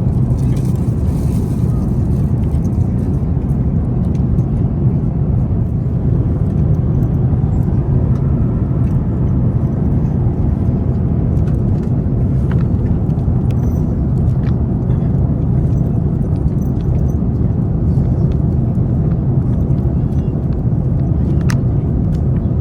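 Airbus A350-900 cabin in cruise: a steady low rumble of airflow and engine noise, with a few faint clicks near the middle and the end.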